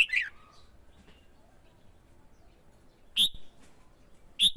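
Red-whiskered bulbul singing in short, loud, clear phrases with a falling slur. One phrase at the start, another about three seconds in, and a third beginning right at the end, with quiet gaps between.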